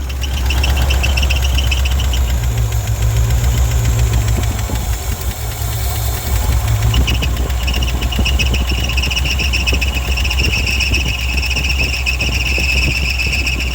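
Engine of a 1967 International 1200 pickup running after a cold restart, a steady low drone. A thin high whine comes in about half a second in, drops out after about two seconds, and returns for most of the second half.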